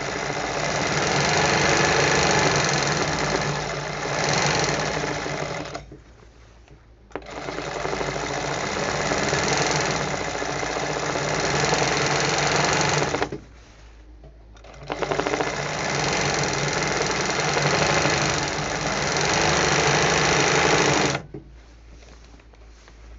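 Handle-type embroidery sewing machine stitching in three long runs, pausing briefly between them and stopping near the end.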